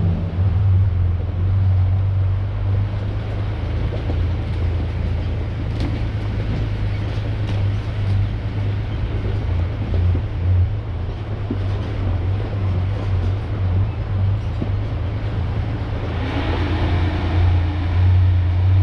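1993 Ford Ranger pickup driving: a steady low engine and road rumble with a hiss of road noise, which grows a little louder near the end.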